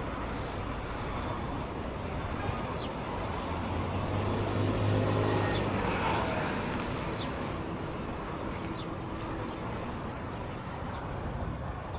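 A motor vehicle passing on a street, its engine hum swelling about four seconds in and fading after about six, over a steady outdoor traffic background.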